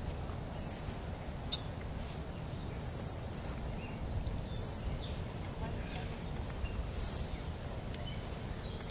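A bird repeating a short, high, down-slurred call about every two seconds, four clear calls with fainter ones between, over a steady low background rumble.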